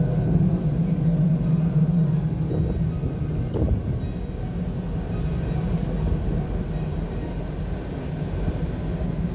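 Jet engine noise from a Kawasaki T-4 trainer's twin turbofans: a steady low rumble that eases a little after about four seconds.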